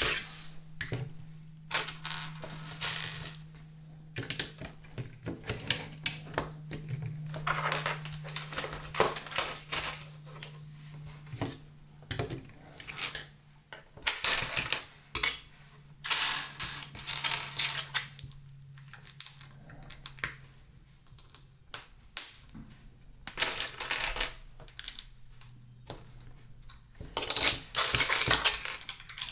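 LEGO plastic pieces clicking and clattering in irregular bursts as parts are sorted through and pressed together, with sharp single clicks between rattling clusters.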